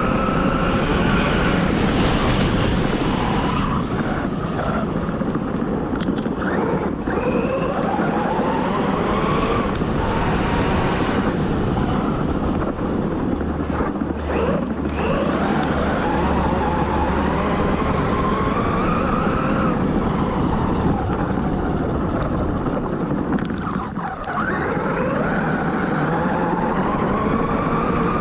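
ARRMA Talion 6S RC car's brushless motor whining through repeated full-throttle pulls, its pitch rising and falling again and again as the car speeds up and slows, over a steady rushing noise.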